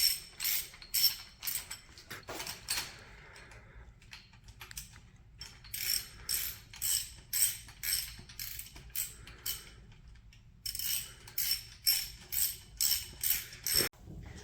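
Hand socket ratchet clicking in three runs of strokes, about two clicks a second, as rocker arm bolts are tightened down before torquing.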